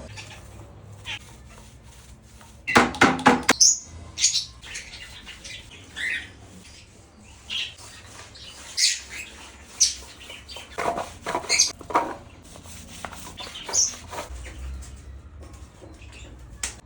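Pet parrot giving short, irregular chirps and squawks, with a quick run of sharp calls about three seconds in.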